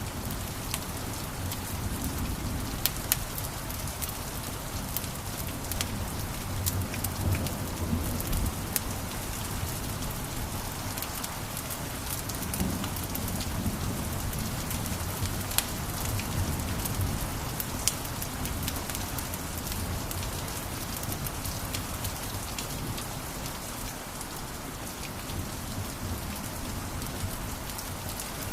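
Wood fire crackling in a fireplace: a steady hiss with frequent sharp pops and snaps and a low rumble from the flames.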